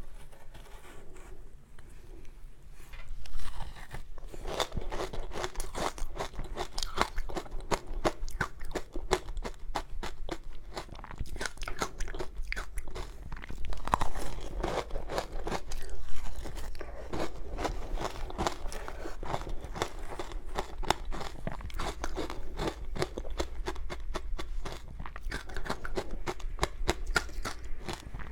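Close-miked crunching and chewing of powdery frozen ice dusted with matcha powder, a dense run of rapid crackles with a few louder bites.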